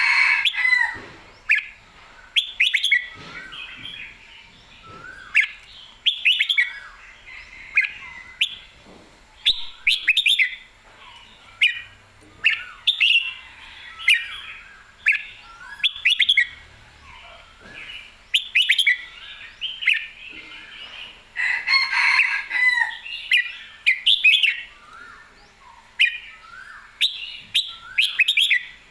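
Red-whiskered bulbul singing in lively full song: short, clear, bubbly phrases repeated one after another every second or two, the bird excited and in competition form.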